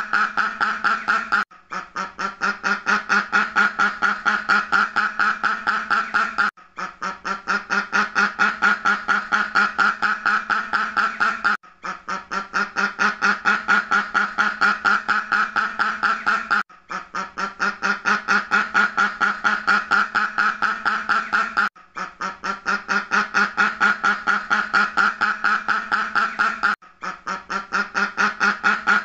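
Duck quacking in a fast, steady run of about five quacks a second. The same five-second stretch repeats as a loop, with a brief break before each repeat.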